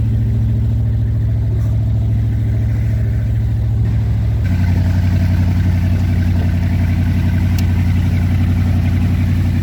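Four Winns Liberator powerboat's engine running steadily. About halfway through, its note drops slightly and gets deeper.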